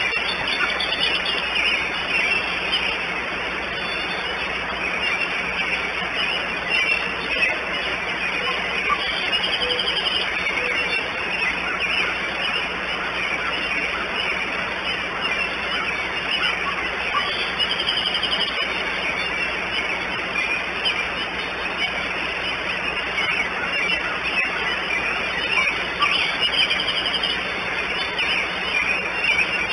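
Wild birds calling in short, repeated trills every several seconds, over a steady outdoor hiss.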